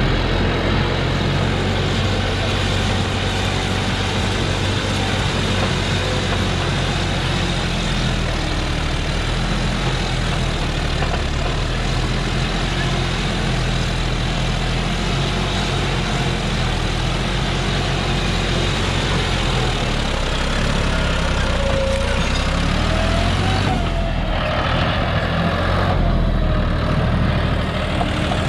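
John Deere 5065E tractor's diesel engine running steadily.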